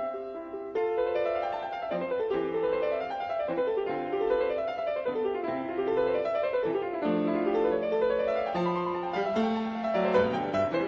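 Background piano music playing flowing arpeggios that rise and fall.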